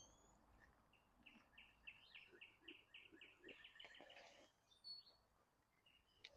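A bird singing faintly: a run of short chirps that come faster and faster over about three seconds, with a single higher note a little later.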